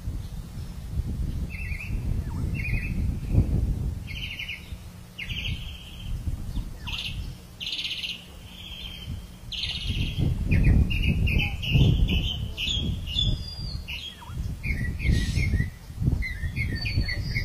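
Birds chirping in many short, high calls, over a low, uneven rumble that swells about ten seconds in.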